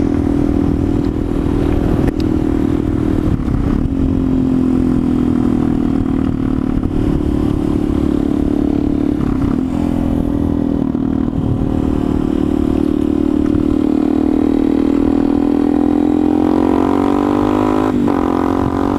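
Motorcycle engine running steadily under way, with wind rumble on the helmet microphone; the engine pitch rises over the last few seconds as the bike speeds up.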